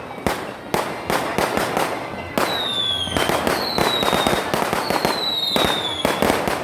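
Fireworks display: a rapid run of loud bangs with crackling between them, and whistling shells whose high whistles fall in pitch, once about halfway through and again near the end.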